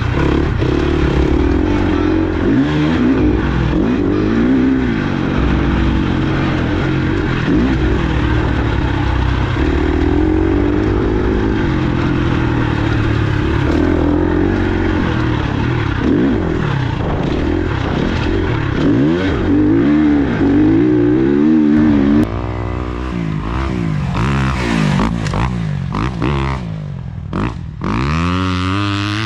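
Dirt bike engine revving up and down over and over, its pitch rising and falling through gear changes, as it is ridden hard on a motocross track. It gets somewhat quieter about two-thirds of the way through.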